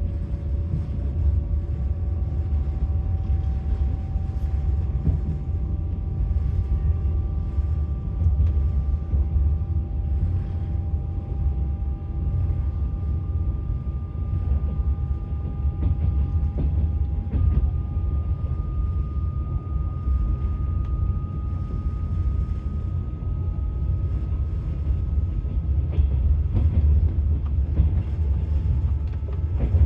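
Passenger train in motion: a steady low rumble of the carriage and wheels on the rails, with scattered clicks of the wheels. A faint whine of several tones rises slowly in pitch.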